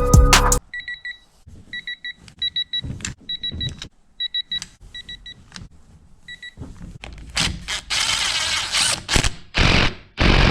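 Music cuts off, then short high electronic beeps sound in groups of two or three, among light clicks and knocks. Near the end, louder rushing noise comes in several bursts.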